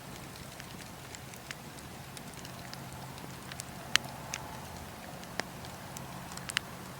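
Wood fire crackling: irregular sharp pops and snaps, the loudest about four seconds in and again near the end, over a steady low hum.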